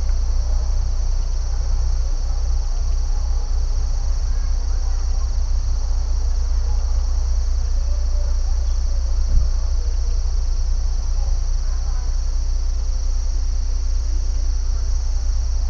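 A steady, high-pitched chorus of crickets over a constant low rumble, with faint scattered chirps.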